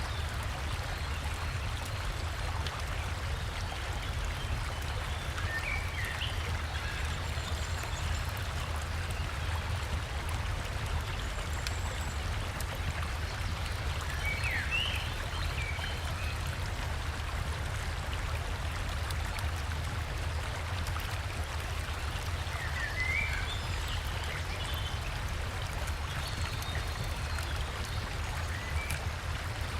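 River water and a small waterfall flowing steadily, with a low rumble under the rushing. Songbirds give short chirps three times over the flow.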